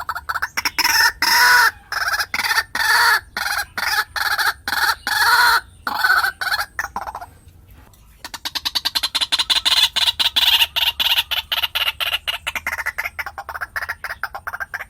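White-breasted waterhen calling: loud harsh notes at about two a second, a short lull about seven seconds in, then a fast run of rapid, clucking notes.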